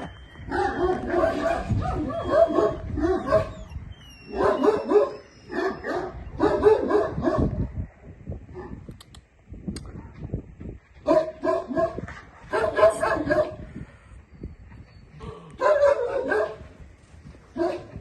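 Dog barking in bursts of several quick barks each, with pauses of a few seconds between bursts.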